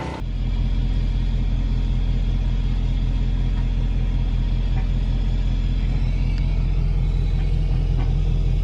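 Steady low vehicle rumble: an engine drone that holds an even pitch and level throughout.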